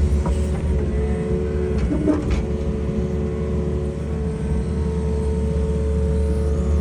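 Excavator's diesel engine running steadily: a low drone with a steady higher hum over it, and a few light knocks about two seconds in.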